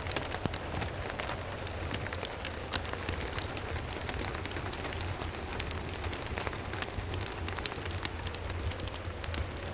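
Steady rain mixed with a wood fire crackling, with many small sharp pops scattered all through over an even hiss and a low steady rumble underneath.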